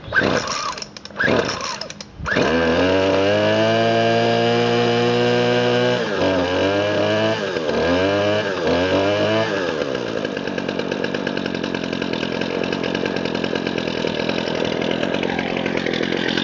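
Craftsman gas string trimmer cold start: a couple of short pull-cord bursts, then the engine catches about two seconds in and runs fast and steady. It is revved down and up three times, then settles into a lower, unsteady running.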